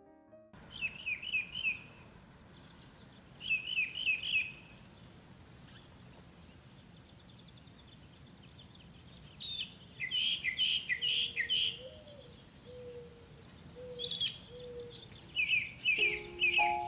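Songbird singing: phrases of three or four quick falling notes, repeated several times with pauses between, with fainter lower notes in the middle, over a steady outdoor hiss. Soft piano music comes in near the end.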